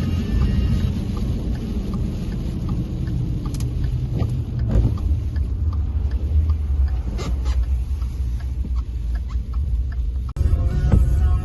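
Steady low rumble of a car driving on the road, engine and tyre noise.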